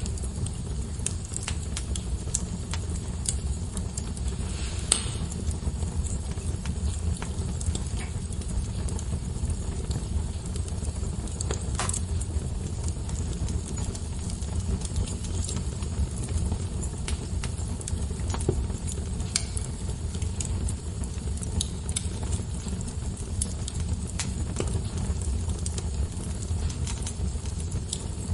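Wood fire crackling in a fireplace: a steady low rumble of flames with a running crackle and scattered sharp pops, two louder ones about five and twelve seconds in.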